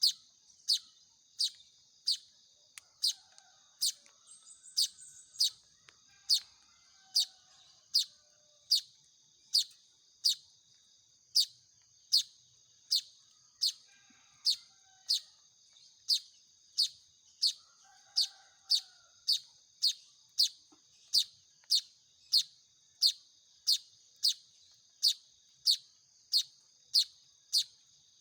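Manyar weaver chick giving begging calls: short, sharp, downward-sweeping chirps repeated at a very even pace, about one and a half a second.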